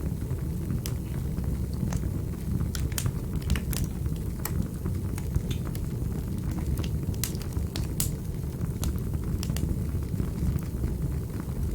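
Wood fire in a fireplace crackling: irregular sharp pops and clicks over a steady low rumble of the flames.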